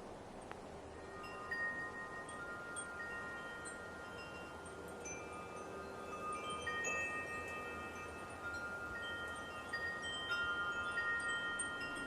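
Wind chimes ringing, starting about a second in: several metal tones struck one after another that ring on and overlap, over a soft hiss of light wind.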